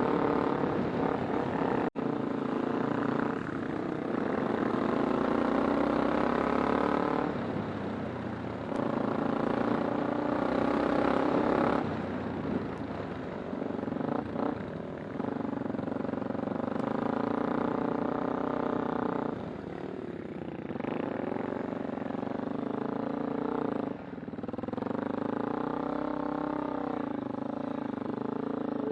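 Kawasaki Super Sherpa's single-cylinder 250 cc engine running under way. Its pitch rises and falls as the throttle opens and closes, dipping every few seconds.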